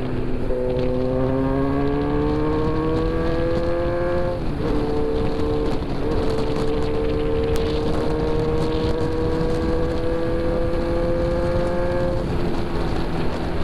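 Motorcycle engine pulling under throttle while riding, its pitch rising. About four and a half seconds in there is an upshift, then a long slow climb until the throttle closes near the end. Wind rushes over the microphone throughout.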